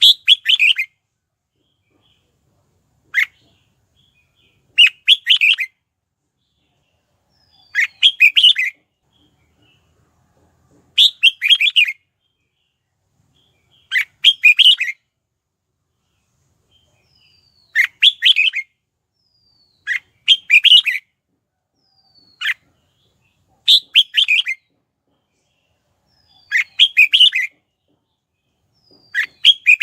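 Red-whiskered bulbul singing short, loud chattering phrases, each under a second long, about one every three seconds, with silence between.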